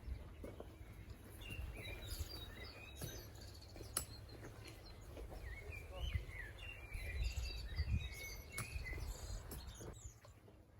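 Small birds chirping and twittering in quick, varied short calls over a low rumbling background noise, with a couple of sharp clicks.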